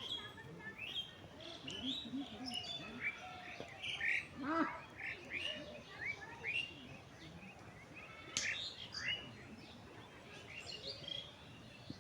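Several birds chirping and calling, with many short chirps overlapping one another and a few louder calls about four and a half and eight and a half seconds in.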